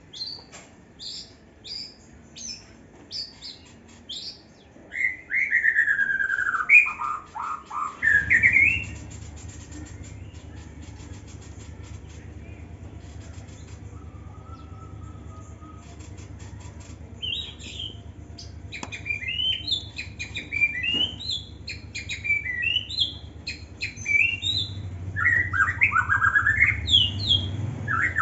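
Young white-rumped shama singing in an aviary: a few short chirps, then loud sliding whistled phrases, a lull, and more quick chirps and phrases near the end. A steady low hum starts about a third of the way in.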